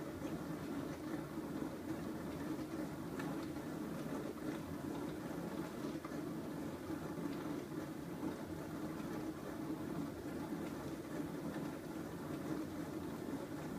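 Bosch SMS50M08GN dishwasher running through a wash cycle: a steady low hum with a hiss of circulating water over it.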